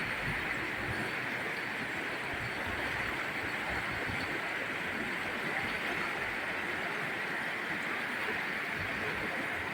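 Steady rush of flowing river water, an even hiss that holds level throughout.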